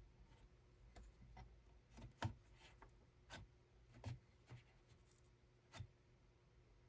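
Quiet hand-weaving work: a few faint, irregularly spaced taps with light rubbing between them.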